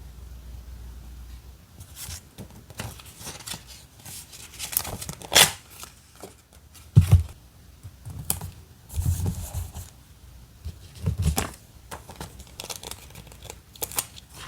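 Paper and stickers being handled for journal decorating: irregular rustling, crinkling and short tearing sounds, with a few soft thumps on the desk.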